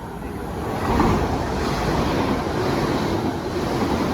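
Class 800 IET train passing through the station at speed, a steady rush of wheels and air. It grows louder about a second in and holds.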